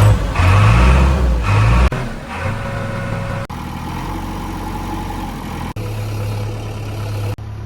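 Heavy diesel engine working hard, with a loud pulsing low rumble for about two seconds, then running more steadily. The sound jumps abruptly several times.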